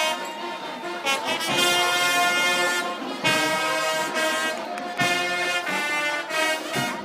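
Brass instruments playing music in held chords of about one to two seconds each, with short breaks between them.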